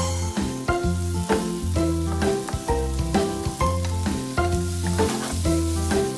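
Background music with a steady, rhythmic bass line and a plucked-sounding melody, over octopus and mushrooms sizzling in garlic butter in a frying pan as a wooden spatula stirs them.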